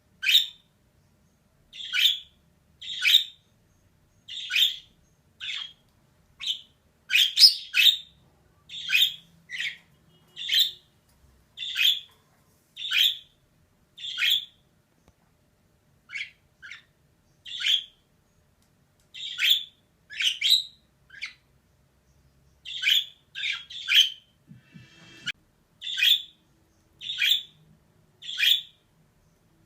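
Female budgerigar calling: short, sharp chirps repeated about once a second, some coming in quick pairs.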